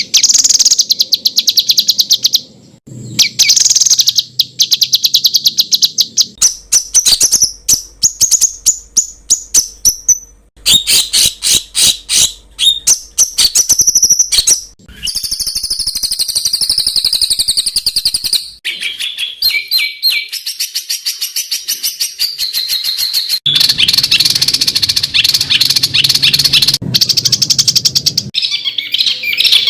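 Songbird singing loud, rapid-fire strings of sharp repeated notes and trills, the 'tembakan' (shot) notes used to tutor competition songbirds. The phrase changes every few seconds, with brief pauses between them.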